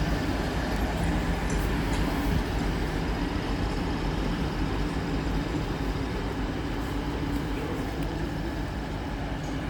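Colas Railfreight freight train passing through: a steady rumble with a low, even engine hum.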